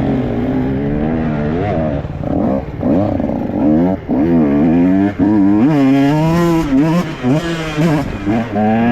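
Dirt bike engine running loudly, its pitch rising and falling again and again as the throttle is worked and the rider shifts through the gears.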